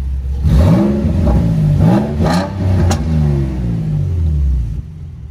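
Infiniti G35 coupe's VQ35DE V6 revved in park through an HKS replica exhaust, heard from inside the cabin: a few quick rises and falls in pitch from idle, settling back to idle near the end. The exhaust is a little bit too loud.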